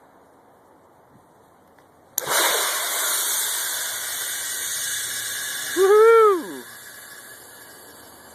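ABS avalanche airbag inflating: a sudden loud hiss of gas rushing into the bags about two seconds in, lasting about four seconds and slowly tapering off. A woman's cheer of "woohoo" rises and falls over it near the end.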